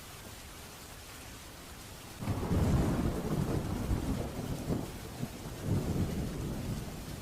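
Steady rain hissing, then about two seconds in a thunderclap breaks in suddenly and rolls on as a deep rumble, swelling a second time about two-thirds of the way through before easing off.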